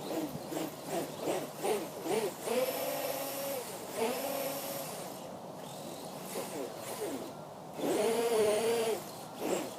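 Radio-controlled truck's electric motor and drivetrain whining as the throttle is blipped, the pitch sweeping quickly up and down, with two held higher runs, one about three seconds in and one near the end.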